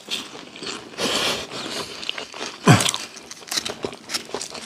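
Close-up crunching and chewing of crisp kerupuk crackers, with a dense run of crunchy crackles near the end. A brief downward-sliding sound, the loudest moment, comes a little past halfway.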